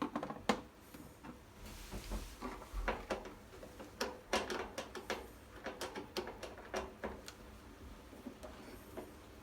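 Irregular clicks and light knocks, a dozen or more spread unevenly, like hard objects being handled and set down.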